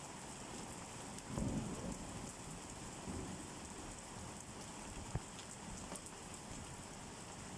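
Steady rain falling, with a brief low rumble about a second and a half in and a single sharp tap of a drop about five seconds in.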